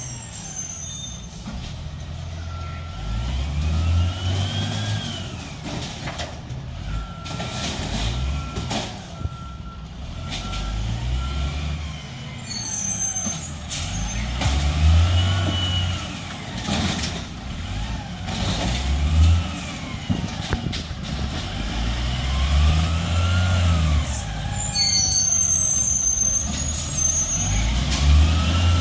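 Garbage truck engine revving up and falling back again and again, about every four to five seconds, with a reversing beeper sounding in stretches early on and high squeaks or hisses, the sort air brakes make, a couple of times.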